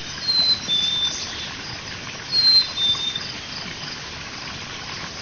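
A songbird whistling a clear two-note song, a higher note followed by a slightly lower one, repeated about every two and a half seconds over steady outdoor background noise.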